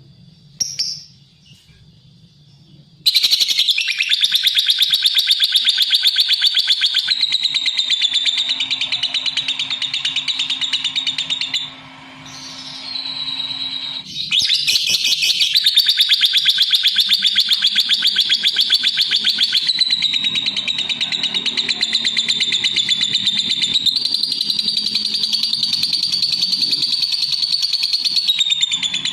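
Lovebird chattering in a long, very rapid, shrill unbroken stream, starting about three seconds in after a brief chirp. It breaks off for a moment about halfway, then resumes.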